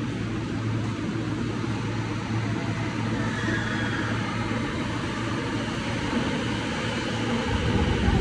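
Rinkai Line train approaching through the underground station and running in alongside the platform: a steady rumble over a low hum, growing louder near the end, with a faint high whine about three seconds in.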